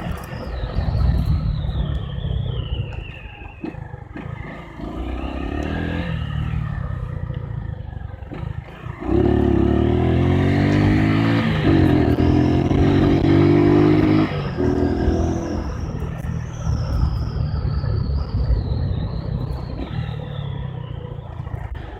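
Single-cylinder four-stroke engine of a Honda CG 150 motorcycle riding off-road, its pitch rising and falling as the throttle opens and closes. About nine seconds in it gets much louder for roughly five seconds of hard revving under acceleration, then settles back.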